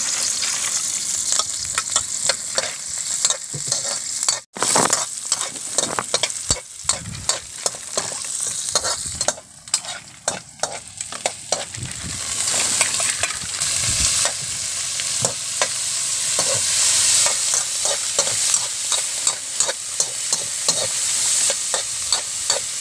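Onions, garlic and shellfish meat sizzling as they fry in a metal wok, with a metal ladle stirring and scraping against the pan in quick clicks. The sound drops out briefly about four and a half seconds in.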